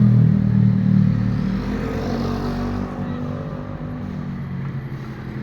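A motor vehicle's engine running, loud at first and fading steadily over the next few seconds.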